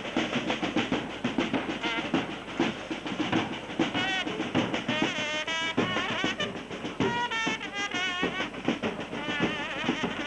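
Fast, dense drumming with shrill, wavering trilling calls rising over it in the middle.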